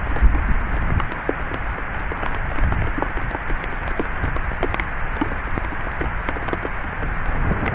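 Heavy thunderstorm rain falling steadily, with many individual drops ticking and splatting on nearby surfaces and a low rumble of wind underneath.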